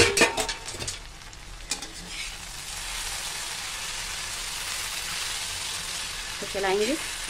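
A steel lid clatters against the kadhai as it is taken off. Then cut okra sizzles in oil, with no water added, as a metal spatula stirs it in the steel kadhai, with a short squeak near the end.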